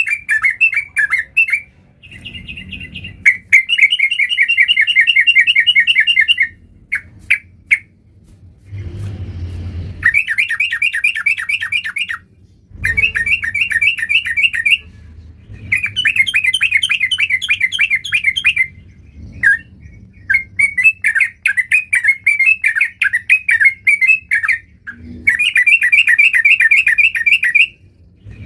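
Yellow-vented bulbul singing in full voice: repeated phrases of rapid, bubbly, warbling notes, each lasting about two to three seconds, separated by short pauses.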